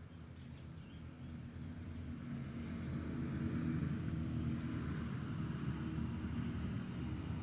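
A low engine hum that grows louder over the first few seconds, then holds steady.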